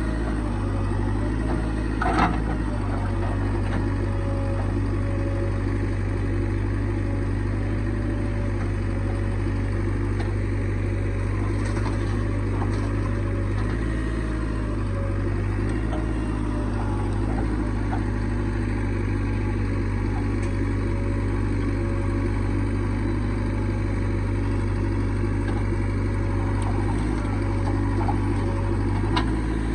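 Heavy diesel engine running steadily at an even speed, with a sharp knock about two seconds in and another near the end.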